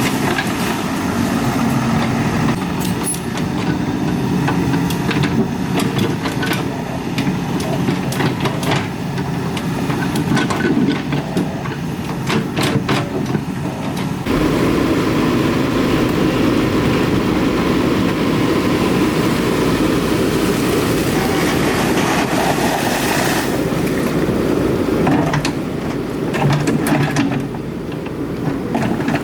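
Excavator's diesel engine running, with scattered metallic knocks and clanks; about halfway through the engine gets louder and heavier, as if working under load.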